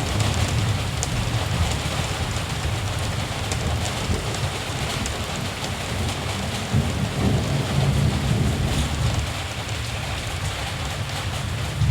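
Steady rain falling, with low rumbling of distant thunder that swells louder about seven seconds in.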